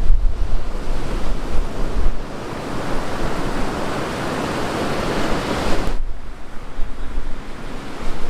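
Rough surf breaking and washing up a beach, with wind buffeting the microphone in the first couple of seconds. A wave's rush swells from about two seconds in and drops away sharply about six seconds in, leaving a quieter wash.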